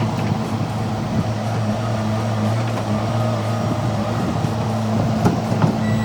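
An engine running steadily with a constant low hum, and a few light knocks near the end.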